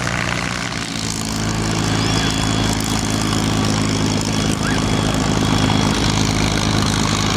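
P-51 Mustang's V12 piston engine and propeller running at a steady, even pitch.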